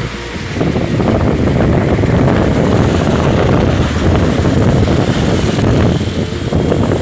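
Wind buffeting the microphone over the steady running noise of a moving vehicle, with a brief dip in level about half a second in.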